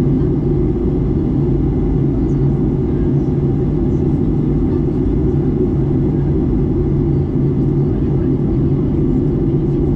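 Steady cabin noise inside a Boeing 737 MAX 8 in flight: a loud, even low rumble of its CFM LEAP-1B engines and the airflow, with a constant low hum.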